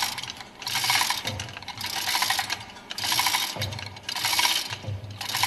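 Ratchet spanner being worked back and forth, a run of quick clicks on each stroke about once a second, as it turns the lifting tool's centre screw to draw the fuel-pump plunger up.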